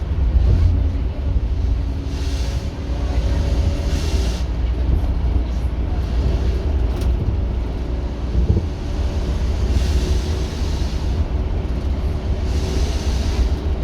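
Scania K230UB OmniLink bus's five-cylinder diesel engine running under way, a steady deep rumble whose note drifts up and down a little. Hiss swells up a few times over it.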